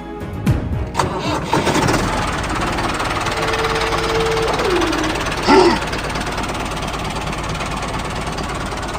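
Music ends about a second in and gives way to the mini tractor's small motor running steadily. About halfway through, a brief loud pitched sound stands out over it.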